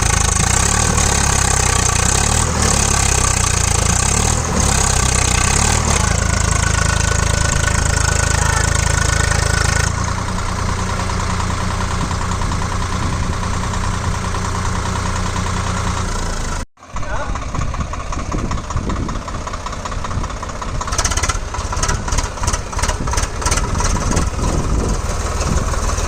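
Diesel tractor engines running during a mud recovery tow, with the engine sound changing abruptly at about ten and seventeen seconds in where the footage cuts.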